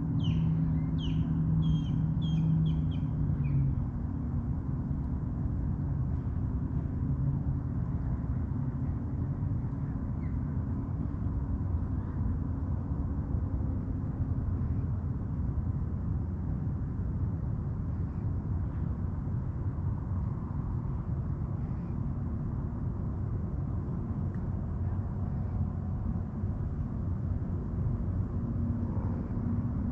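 Steady low drone of a boat engine running on the water throughout. A bird calls several times in quick succession during the first few seconds, with a few faint chirps later.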